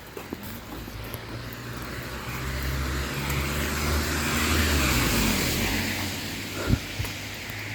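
A car passing by on a wet road: engine hum and tyre hiss swell to a peak about halfway through, then fade away. A couple of footsteps knock near the end.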